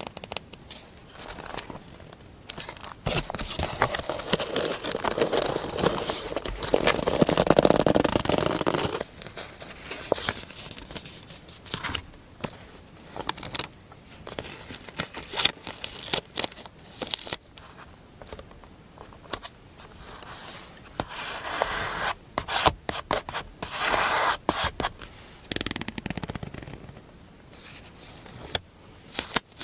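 Close-up paper-crafting sounds: paper rubbing and scraping, with many short sharp clicks and snips, like paper being handled and cut for a scrapbook collage.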